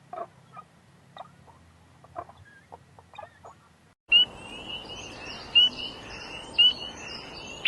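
Scattered short squeaks and chirps from a small animal. About four seconds in, the sound cuts to birds calling over steady background noise: a short, sharp call repeated about once a second, with softer chirps between.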